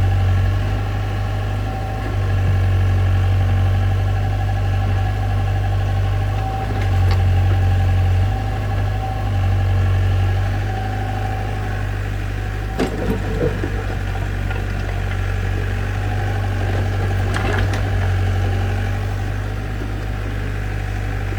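A heavy-machine engine idling steadily, with a few short knocks around the middle and again a few seconds later.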